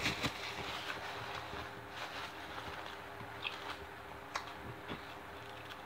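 Quiet chewing of a mouthful of Subway cold cut sandwich on soft honey oat bread, with a few soft mouth clicks, over a faint steady hum.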